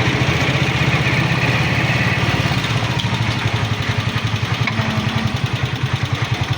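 Small motorcycle engine running steadily close by, with a rapid, even putter of about ten beats a second.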